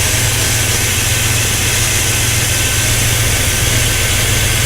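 1998 Dodge Ram 1500's V8 engine idling steadily, with the drive belt sounding kind of squeaky, which the owner takes as a sign that it needs checking.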